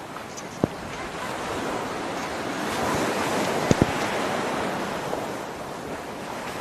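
Steady rush of water, with a few sharp taps: one about half a second in and a quick pair a little past the middle.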